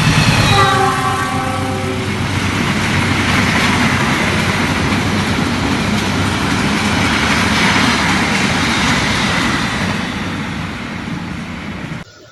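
A train passing close by: a horn chord sounding and fading out in the first two seconds, then the loud, steady rush and rumble of the train going by, dying away near the end and cutting off suddenly.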